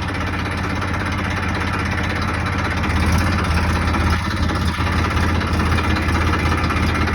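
Tractor engine running steadily at idle, a low even drone.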